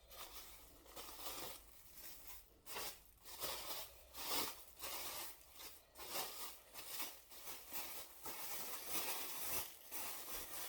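Irregular crinkling and rustling noises, a run of short rustles about once or twice a second.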